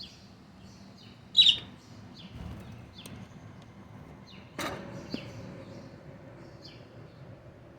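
Pet bird repeating short chirping contact calls, each a quick downward-sliding chirp, roughly one every half second to second, with one much louder call about a second and a half in. A sudden sharp knock comes a little past halfway.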